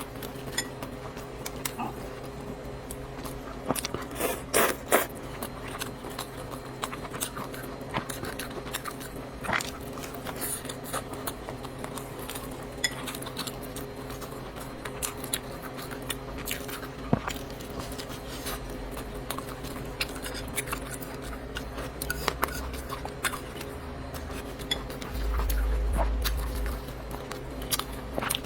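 Close-miked eating of noodles: chewing and biting, with many short clicks of utensils against a bowl, over a steady low hum. A low rumble lasts a couple of seconds near the end.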